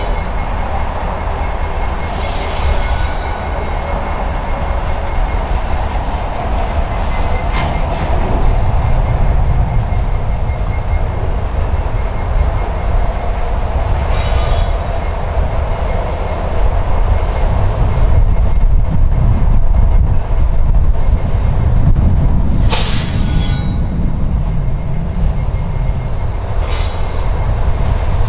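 Canadian National diesel-hauled freight train of loaded coke hopper cars rolling over a bridge. A heavy low rumble grows louder as the cars pass, broken by a few sharp knocks, the loudest about 23 seconds in.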